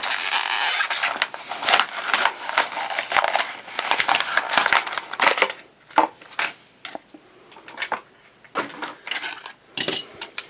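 Crinkly plastic blister packaging crackling and crunching as a die-cast toy car is worked out of its package, dense for the first five seconds or so. After that come scattered clicks and short rustles of handling.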